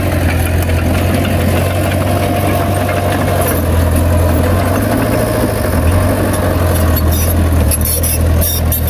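Heavy earthmoving machine's diesel engine running steadily, with a deep low hum, and a run of sharp crackles near the end.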